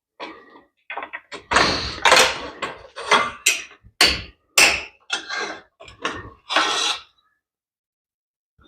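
Hand tools knocking, banging and clattering on motorcycle parts during a tear-down, about a dozen irregular hits in quick succession that stop about seven seconds in.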